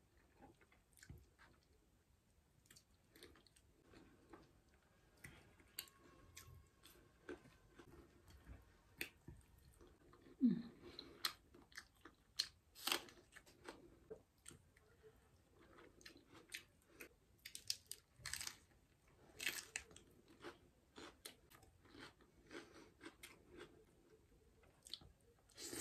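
Close-miked chewing of a person eating by hand, with scattered short sharp smacks and crunches.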